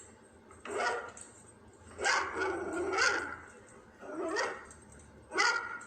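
A dog barking excitedly in four bouts: a short one about a second in, a longer run of barks around two to three seconds, and two more short ones later.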